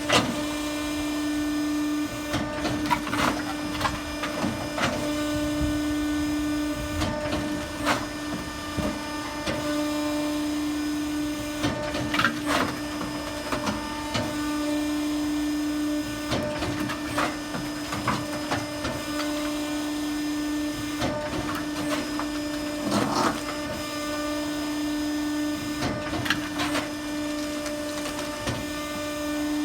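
Automatic firewood processor running with a steady mechanical hum, broken every few seconds by irregular knocks and cracks as logs are fed, cut and split.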